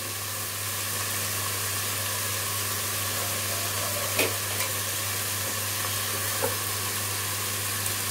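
Stir-fried green beans, tofu and sweet corn sizzling steadily in a wok under an aluminium lid, with two small ticks, the louder one about four seconds in.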